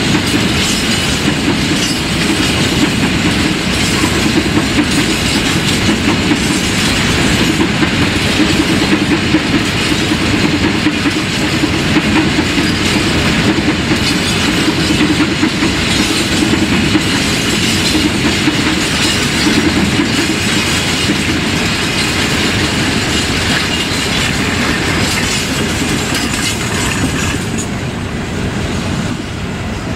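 Empty grain hopper wagons of a freight train rolling past, their wheels clicking over the rail joints in a steady clickety-clack. The sound fades near the end as the last wagon goes by.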